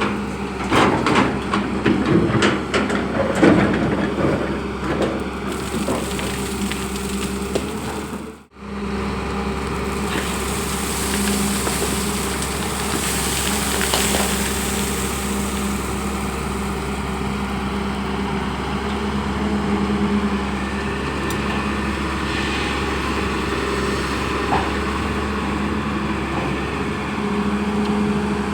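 Long-boom excavator's diesel engine running steadily, with irregular knocking and clatter from the bucket and soil in the first few seconds. The sound drops out briefly at about eight seconds, then the engine carries on steadily.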